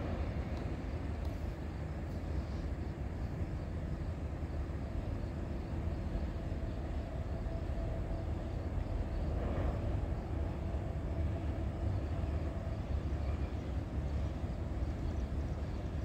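Distant rumble of an approaching EXO diesel commuter train, a steady low drone, with a faint thin tone coming in about seven seconds in and fading a few seconds later.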